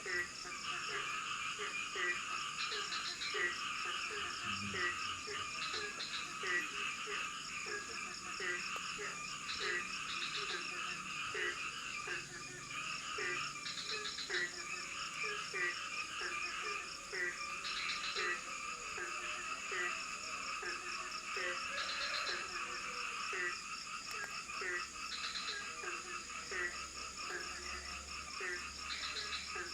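A chorus of frogs calling. One low croak repeats about twice a second over a dense layer of higher, pulsing calls, with a steady high-pitched buzz behind them.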